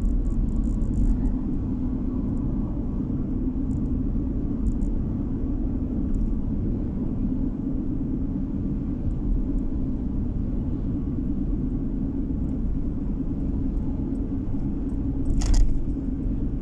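Car driving along a road: steady low road and engine rumble with tyre noise. A brief, sharp louder noise sounds near the end.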